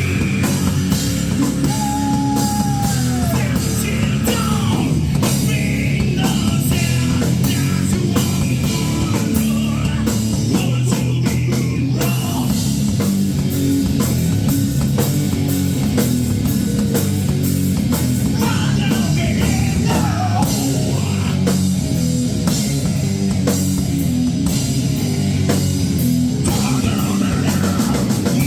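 A rock band playing live: drum kit and electric guitar at a loud, even level, with a voice singing at times.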